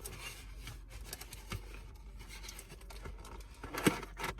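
Close-up chewing of a big mouthful of food: a run of small wet clicks and crackles, with a sharper click near the end.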